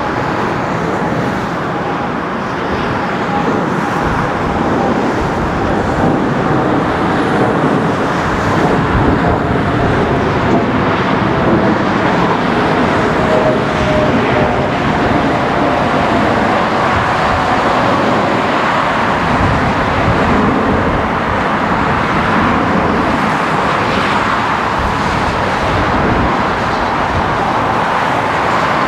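Jet engines of a Boeing 787-9 Dreamliner running loudly and steadily as the airliner moves past, with a faint whine that slowly falls in pitch.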